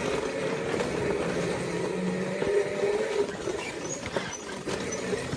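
Small quad bike's motor running with a steady whine that wavers in pitch, with a few short knocks.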